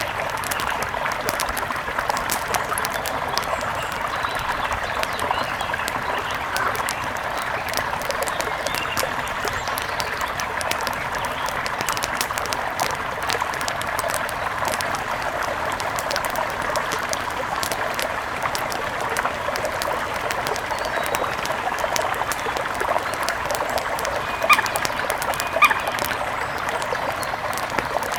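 Mountain river flowing steadily, with scattered faint clicks. A bird calls twice briefly, about a second apart, near the end.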